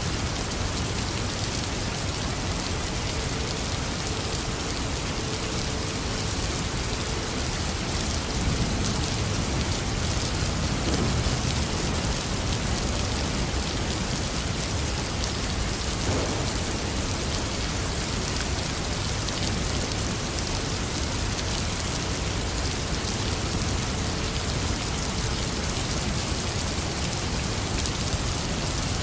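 Heavy rain falling steadily, with a low rumble of thunder about nine seconds in.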